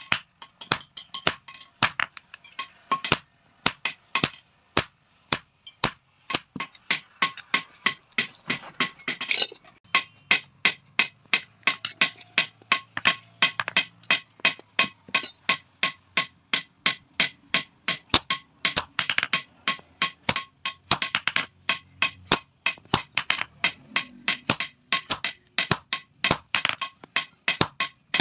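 Blacksmith's hand hammer striking metal on an anvil in a steady run of blows, about three a second, each with a bright metallic ring.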